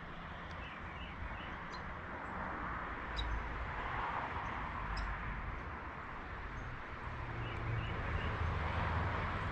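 Small birds chirping in short, scattered calls over a steady outdoor rushing background with a low rumble.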